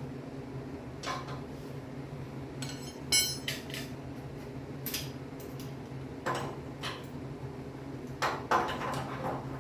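Metal tools and parts clinking and knocking, a few separate strikes, with one bright ringing clink about three seconds in, over a steady low hum.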